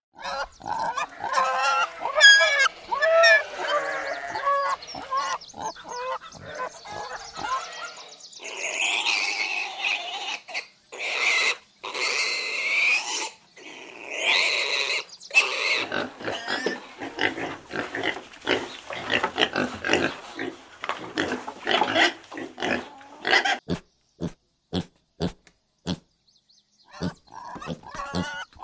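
Pigs grunting and squealing: a run of calls, loudest and highest-pitched between about 8 and 16 seconds in, then rougher grunting, ending in a string of short sharp sounds.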